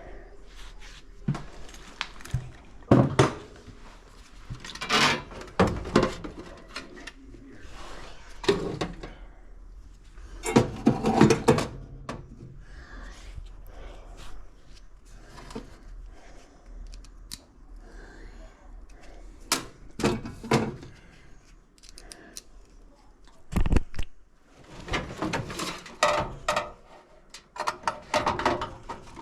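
Irregular knocks, clunks and short scrapes of parts and tools being handled during repair work, coming in clusters with quieter gaps between them.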